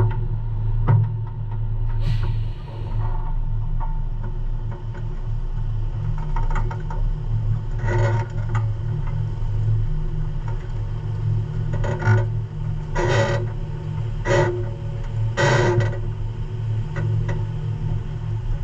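Semi truck's diesel engine running with a steady low hum, broken by several short noisy bursts.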